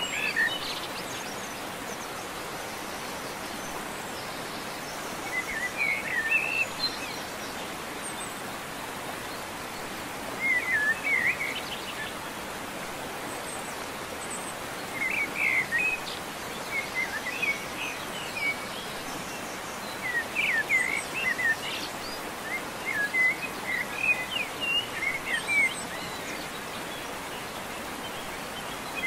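Birds chirping in short scattered bursts every few seconds over a steady background hiss.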